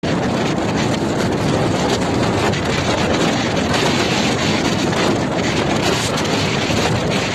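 Blizzard wind blowing hard and steadily, buffeting the microphone.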